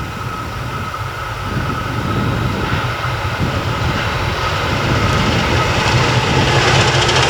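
Diesel freight locomotive approaching, its engine hum growing steadily louder, with a steady high whine above it.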